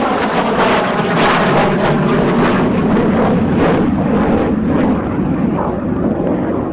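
Jet noise from a MiG-17F (Polish-built Lim-5) with its Klimov VK-1F turbojet flying past: a loud, rough rush with crackle that eases slightly after about five seconds.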